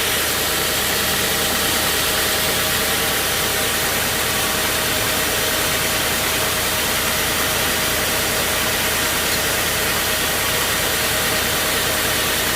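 Engine-driven sawmill machinery running steadily at a constant speed: a continuous engine drone with an even hiss over it and faint steady tones, with no changes in load.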